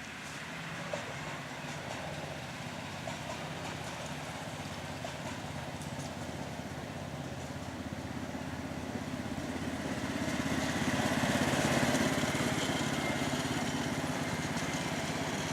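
Ten-inch-gauge miniature railway train running, a steady engine-like drone that grows louder about ten seconds in as it comes closer.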